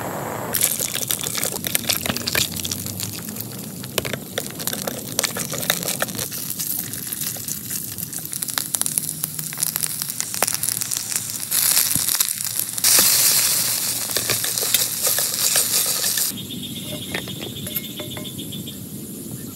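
Very heavy rain beating on a tent, a dense crackle of drop impacts over a steady hiss. A few seconds past the middle the rain comes down harder for several seconds in a louder, hissing rush, then eases back.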